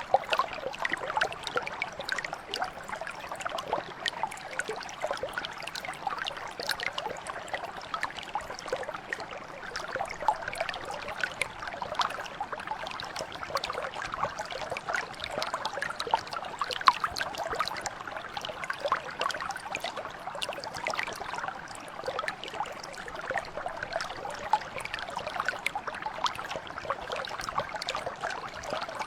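A small mountain stream flowing and babbling over stones, a steady rush with many quick splashes and trickles.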